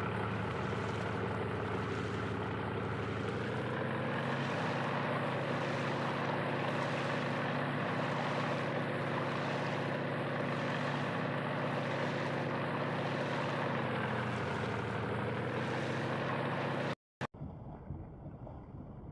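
Motorboat engine running steadily, its pitch dipping and shifting slightly a few seconds in and again near the end, then cutting off abruptly.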